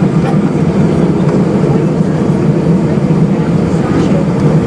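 Airbus A320's jet engines heard from inside the passenger cabin: a loud, steady drone with a strong low hum.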